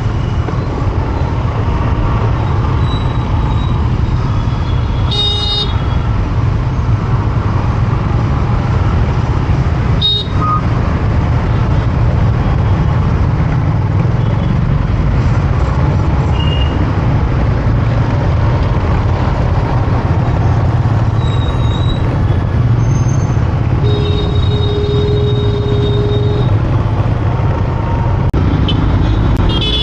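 City road traffic heard from a motorcycle on the move: a steady low rumble with vehicle horns honking several times, one of them held for a couple of seconds late on.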